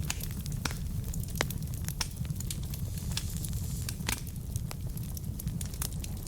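Wood fire burning in a fireplace: a steady low rumble with frequent irregular sharp crackles and pops from the logs.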